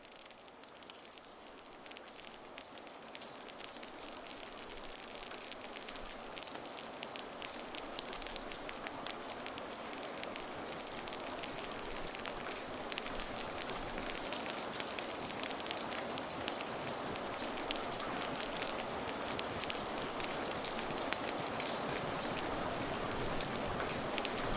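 Steady rain ambience: an even hiss dotted with many small drop ticks, growing gradually louder.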